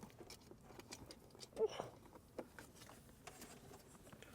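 Faint scattered clicks and rustling of wiring and plastic connectors being pushed through the dashboard to the radio compartment, with one brief louder sound about one and a half seconds in.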